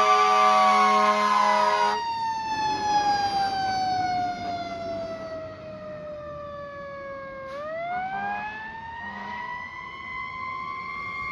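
Fire engine's warning devices: a steady horn blast cuts off about two seconds in, while the siren winds slowly down in pitch. The siren is spun back up again about seven seconds in, rising and then holding.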